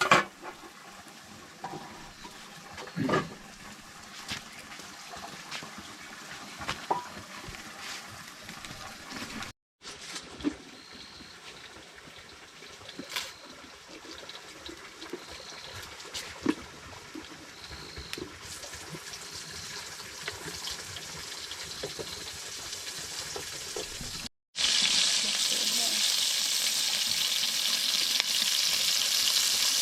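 Kitchen handling sounds with scattered clicks and knocks, and water splashing. Near the end, after a short break, food frying in hot oil begins with a loud, steady sizzle.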